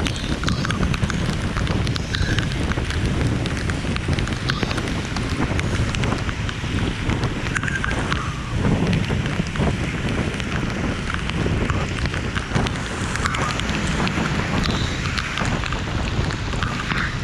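Steady rain falling, with dense patter of drops over a low rumble.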